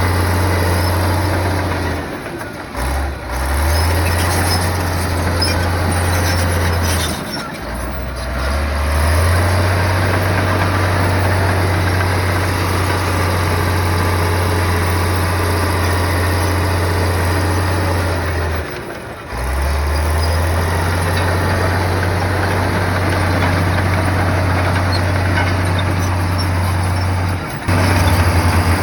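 Komatsu bulldozer's diesel engine running under steady load, with a low drone. Four times it briefly drops in pitch and level, then picks back up.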